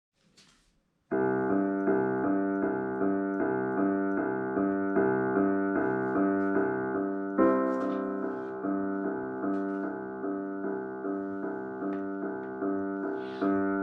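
Solo piano playing the song's intro: steadily repeated chords, starting about a second in.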